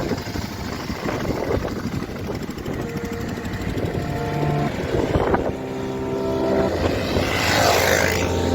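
Motorcycle engine running as the bike is ridden off-road, with a steadier pitch in the second half and a brief rise in hiss near the end.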